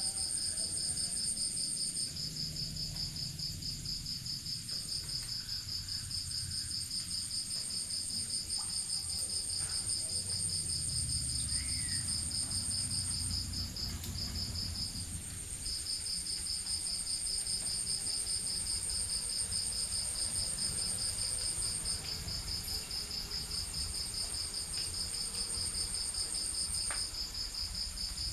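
Crickets chirping in a steady, fast high-pitched trill, with a second, higher insect trill above it. The main trill breaks off briefly about halfway through.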